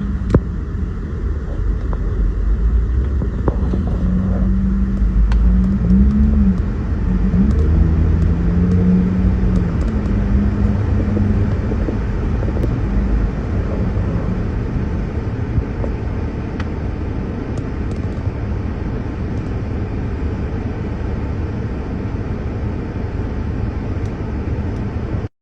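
Motor vehicle engine running with a steady low rumble and a hum that wavers in pitch now and then.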